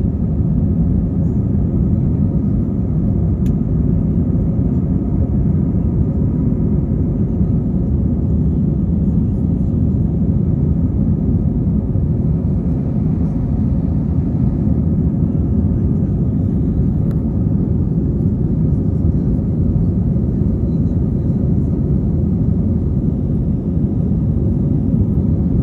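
Steady low rumble of airliner cabin noise: jet engines and airflow heard from inside the passenger cabin, with a faint steady hum over it.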